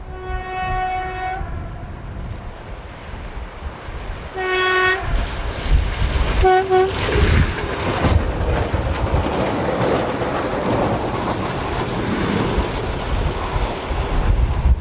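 An ED9M electric multiple unit sounds its horn three times: one long blast, then two short ones. The train then runs past with a steady rumble and wheel clatter.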